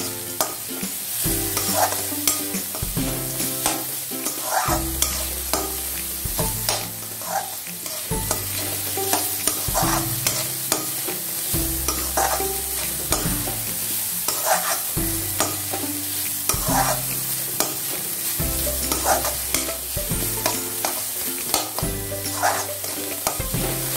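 A spatula stirring and scraping chopped onion, bitter gourd peels and seeds, and raw mango frying in hot oil in a kadhai. A steady sizzle runs throughout, with repeated short scrapes against the pan.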